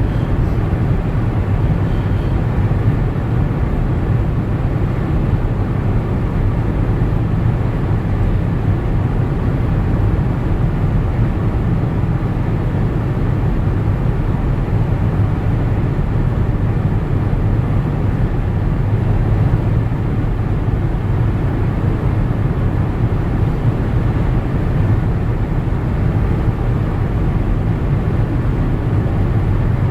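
Steady rumble of a car driving, road and engine noise heard from inside the cabin.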